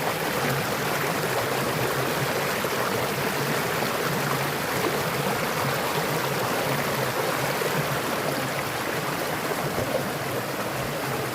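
Mountain stream water rushing steadily over rocks, an even unbroken rush.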